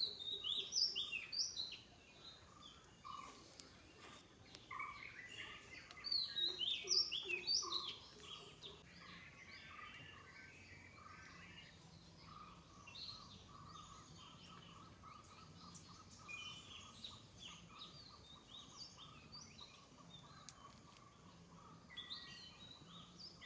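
Birds singing in the background: two louder bursts of quick, falling chirps, one at the start and one about six seconds in, then softer runs of repeated notes.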